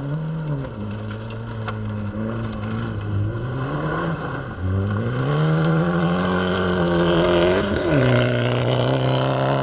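Fiat Egea rally car's engine running hard on a stage. Its pitch holds for stretches, drops sharply about four and a half seconds in and climbs again, then jumps briefly near the end before settling to a steady note, as the driver shifts gears and works the throttle.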